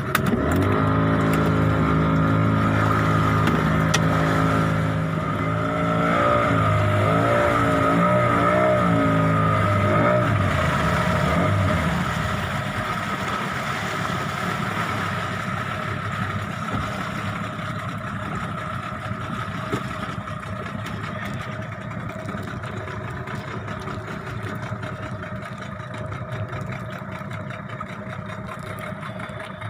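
Boat engine running hard for about the first ten seconds, its pitch wavering as the revs change, then easing off to a lower, steadier run.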